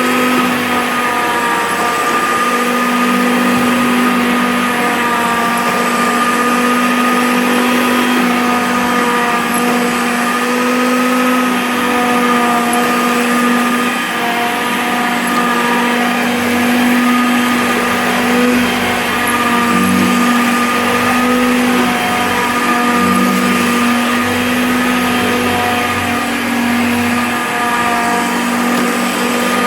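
Hoover Concept 2 upright vacuum cleaner running steadily as it picks up plastic artificial pine needles from the floor, its motor giving a constant hum with a whine, dipping slightly in pitch now and then.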